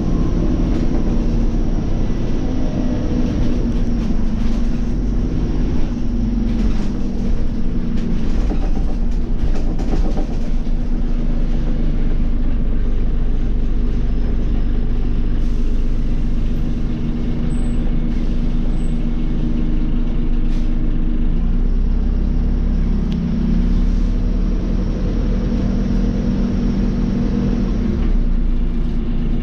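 Scania OmniCity city bus under way: its diesel engine and drivetrain run steadily, with the engine note rising and falling, over a constant low rumble.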